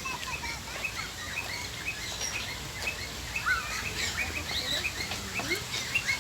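Many small birds in an aviary chirping at once: a busy, overlapping chatter of short, high chirps.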